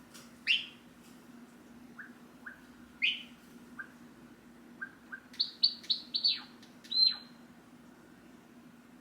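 Java sparrow vocalizing: two loud falling chirps, soft clicking notes, then a quick run of high notes ending in a longer falling note about seven seconds in. A faint steady hum runs underneath.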